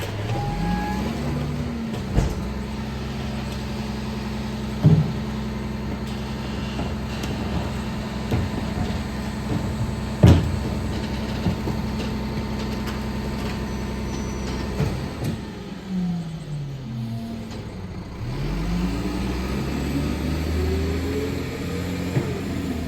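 CCC/McNeilus garbage truck's diesel engine revving up and holding a steady raised speed to run the hydraulic packer, with three sharp bangs as trash is loaded (the loudest about ten seconds in). The engine then drops back and revs up again twice near the end as the truck pulls away.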